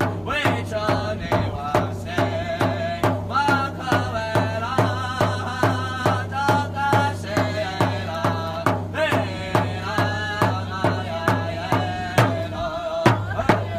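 Native American drum group: a large drum struck in a steady beat, a little over two strokes a second, with voices singing over it in wavering, held tones.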